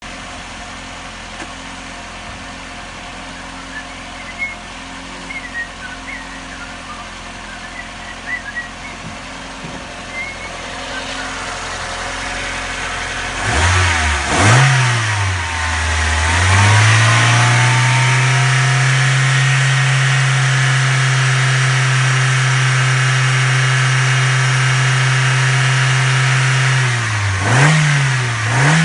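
Toyota 5E-FE 1.5-litre four-cylinder petrol engine running. A quieter steady hum grows louder over the first dozen seconds, then the engine is revved up twice about fourteen seconds in and held at a steady raised speed, with two more quick revs near the end.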